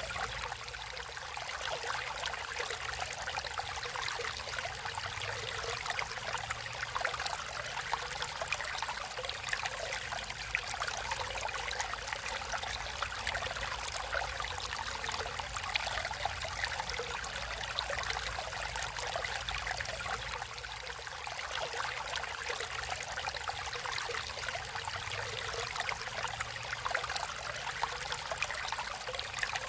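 Water of a small stream flowing and trickling steadily, a continuous splashing babble.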